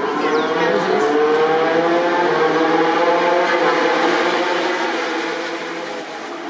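MotoGP racing motorcycle engines, several running at once, their pitches gliding up and down as they rev; the sound eases off a little near the end.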